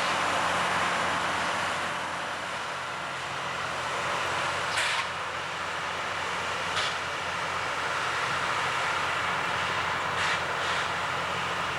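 LORAM rail grinder at work: a steady loud machine noise with a low engine drone under a broad hiss, broken by a few short sharp clicks.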